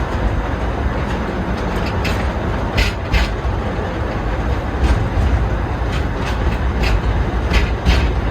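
Forest railway passenger train running, heard from on board: a steady low rumble with the wheels clicking sharply now and then over the rail joints.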